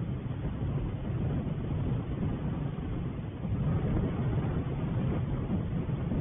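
Wind rumbling on the microphone of an outdoor wildlife camera: a steady low rumble that swells slightly about three and a half seconds in.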